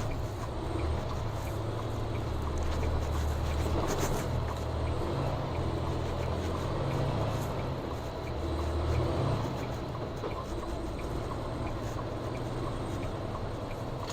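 Car engine and road noise heard from inside a moving vehicle: a steady low rumble that swells a little around the middle.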